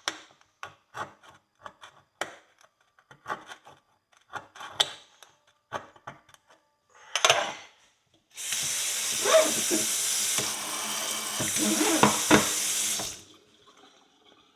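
Short, irregular scrapes and clicks of a metal pick working debris out of an old horseshoe. About eight seconds in, a kitchen tap is turned on and water runs into the sink for about five seconds, then is shut off.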